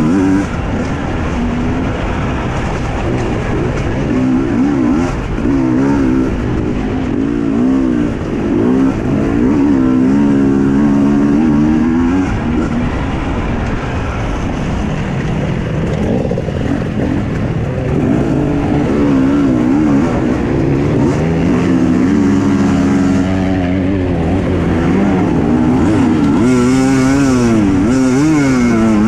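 Husqvarna TE 250i two-stroke enduro motorcycle engine being ridden hard, revving up and dropping back over and over as the throttle opens and closes.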